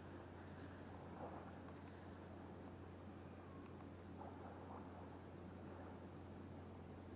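Faint, steady high-pitched cricket trill over a low hum.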